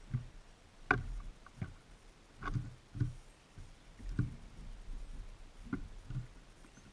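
Birds pecking and hopping on a bird feeder right beside the camera: irregular taps and knocks, about one or two a second.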